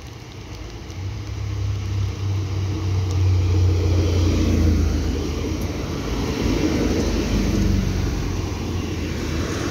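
Red regional diesel multiple unit passing close by: the low hum of its diesel engines builds from about a second in and is loudest around four to five seconds, with the rumble of its wheels on the rails as the cars go past.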